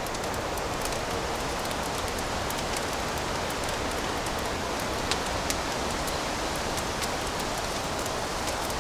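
Fireplace fire crackling: a steady soft hiss with scattered small pops, and a couple of sharper pops about five seconds in.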